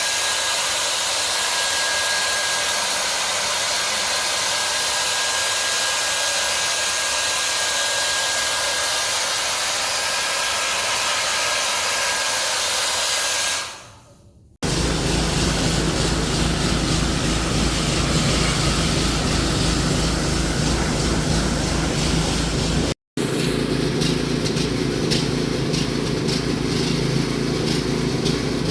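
A steady hiss with a thin high whistle fades out about 14 seconds in. It cuts to the steady low rumble of a car running, which drops out briefly about 23 seconds in.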